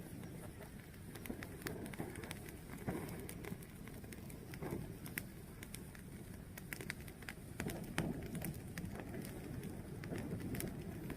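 A fire burning: a steady low rush with irregular sharp crackles and pops scattered throughout.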